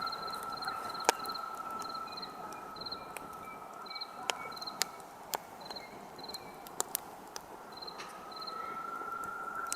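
Wood campfire crackling with sharp, irregular pops, while crickets chirp in short repeated pulses. A steady high whine fades out about halfway through and comes back near the end.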